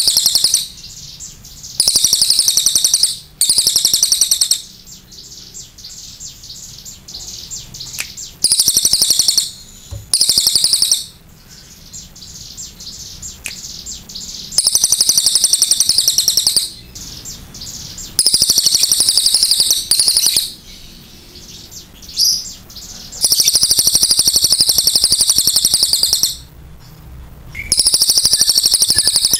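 Crested jayshrike (cililin) singing: loud, high-pitched bursts of rapidly repeated notes, each lasting one to three seconds, about nine times over, with short pauses between.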